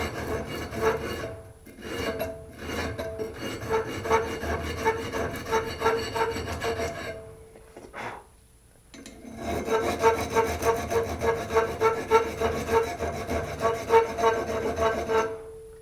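80-grit sandpaper wrapped around a piece of metal, rubbed quickly back and forth inside the grooves of an old tractor wrench to scour off rust. The strokes ring with a steady tone from the metal and stop for about two seconds just past the middle.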